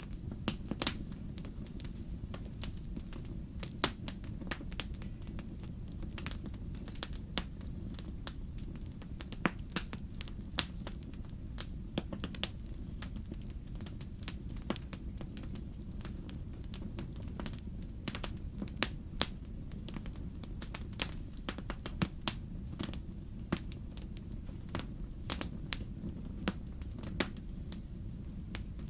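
Wood fire in a fireplace crackling: irregular sharp pops and snaps over a steady low rumble of the burning.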